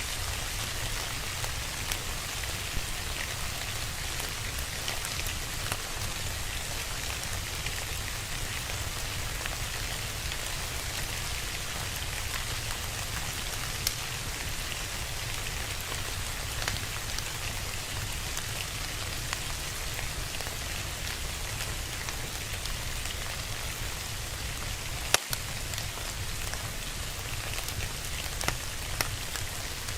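Steady rain, mixed with scattered sharp pops of a crackling fire; the loudest pop comes about twenty-five seconds in.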